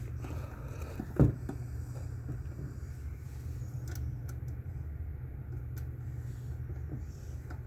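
A steady low rumble with one sharp knock about a second in and a few faint clicks.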